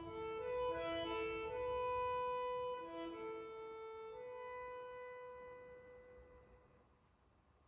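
Slow, quiet orchestral music with violins prominent: held notes that swell, then die away almost to nothing near the end.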